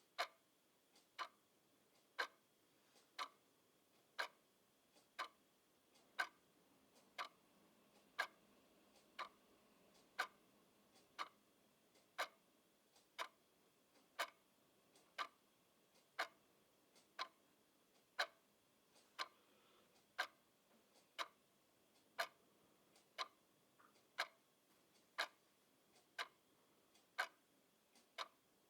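Clock ticking steadily at about one sharp tick a second, some ticks louder than others.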